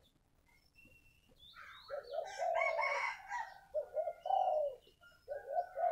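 Spotted dove cooing: a quiet first two seconds, then phrases of low, bubbling coos starting about two seconds in and repeating twice more toward the end.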